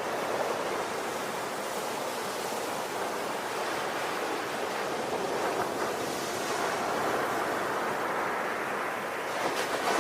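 Ocean waves breaking and washing on the shore in a continuous rushing surge that swells and eases, with a brief crackle of foam near the end.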